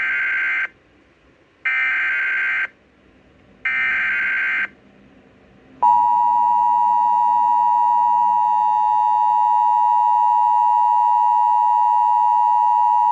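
Emergency Alert System tones on a radio broadcast: three short bursts of screeching SAME digital header data, about a second apart, then about six seconds in the steady two-tone attention signal begins and holds. The sequence announces a severe thunderstorm warning.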